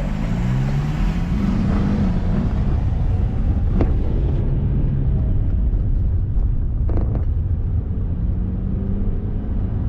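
Car engine and road rumble while driving. The engine note rises as it accelerates over the first couple of seconds, then holds steady, with a couple of short knocks later on.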